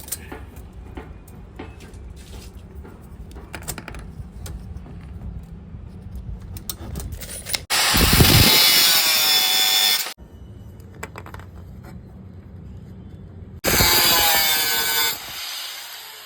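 A power tool cutting into a metal rod in two loud bursts, the first about two and a half seconds long and the second about a second and a half. After the second burst the motor winds down with a falling whine. Before the cutting there are quieter handling clicks and knocks.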